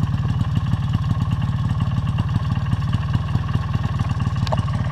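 Four-wheeler (ATV) engine running steadily at low revs with a fast, even putter.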